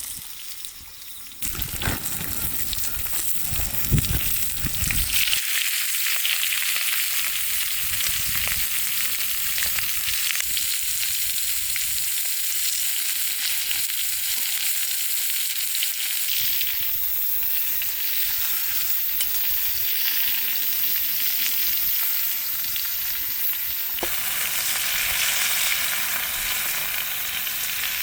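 Food frying over a campfire, a steady loud sizzle that jumps up about a second and a half in.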